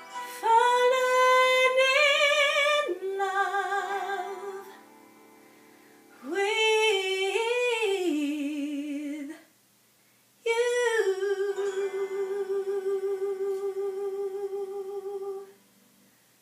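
A woman sings the closing phrases of a slow love ballad in three lines with a wide vibrato over faint accompaniment. The final long note is held and ends the song about 15 seconds in.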